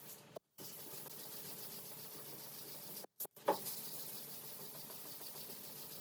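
Hand-sanding with sandpaper over the putty and primer surfacer on a car body panel: a steady scratching hiss. It breaks off into silence twice, briefly, about half a second in and about three seconds in.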